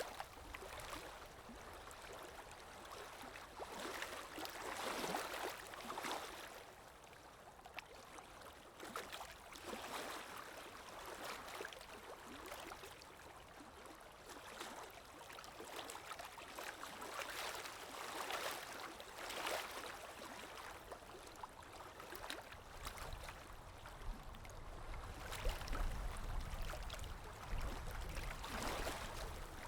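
Calm small waves washing in and lapping, one gentle swell of hiss every few seconds. A low rumble rises near the end.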